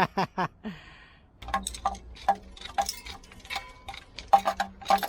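Socket ratchet wrench clicking, a run of sharp metal clicks at about four a second.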